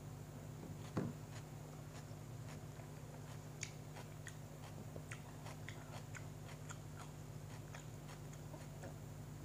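Close-up chewing of a bread sandwich with the mouth closed: many small wet clicks and crunches scattered irregularly. About a second in, a single knock as a glass is set down on the table, over a steady low room hum.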